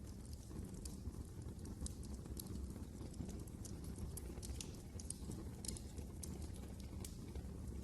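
Fireplace fire crackling: irregular sharp pops and snaps over a steady low rumble of the burning.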